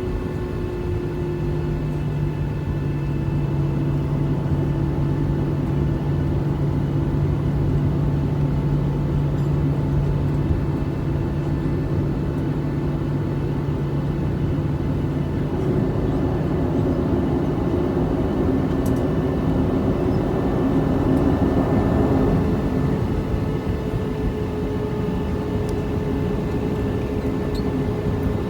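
Jet airliner's engines heard from inside the cabin, a steady drone with several held tones that step in pitch a couple of times, swelling a little about two-thirds of the way through as the plane taxis after landing.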